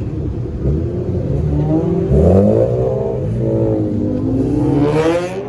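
Car engine revving and accelerating away: a short rev about two seconds in, then a long climb in pitch from about four seconds in as it speeds up.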